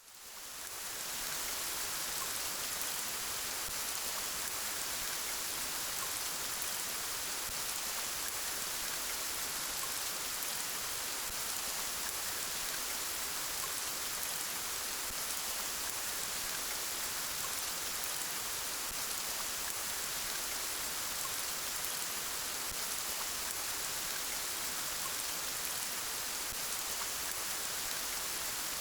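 Steady rain falling, an even hiss of many drops, fading in over the first second.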